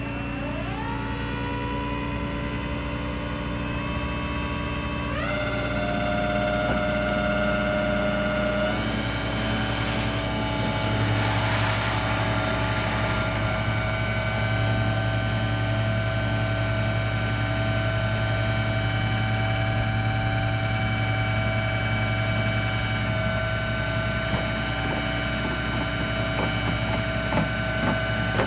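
Tow truck's engine running under load while it pulls a car out of a deep ditch. Its speed steps up about half a second in and again around five seconds in, and a brief rushing hiss comes around eleven seconds in.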